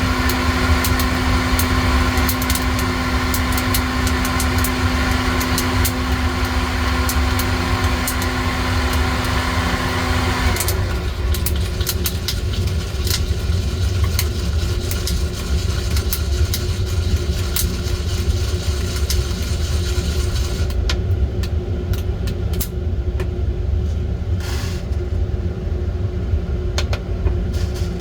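Small-batch coffee-roasting equipment running with a steady low rumble, while a humming motor or heater cuts off suddenly about ten seconds in. Sharp clicks of roasting coffee beans crackle and rattle throughout, thickest in the first third.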